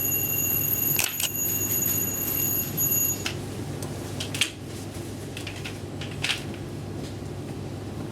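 Steady low hum with a high, steady electronic tone that stops about three seconds in, and a few short clicks or knocks.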